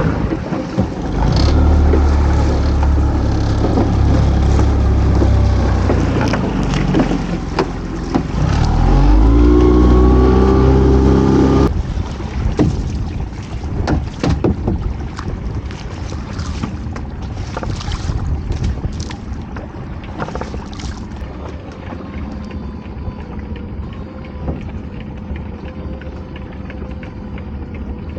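Small boat's motor running, revving up with a rising pitch, then throttled back sharply about twelve seconds in. After that, wind and water noise with scattered knocks and splashes.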